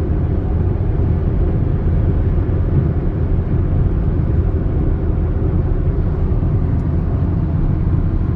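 Steady low rumble of road and engine noise from a Hyundai Accent under way towing a camper trailer.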